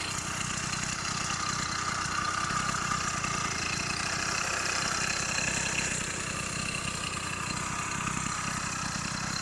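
F80 bicycle engine kit, a small two-stroke motor, idling steadily, a little quieter from about six seconds in.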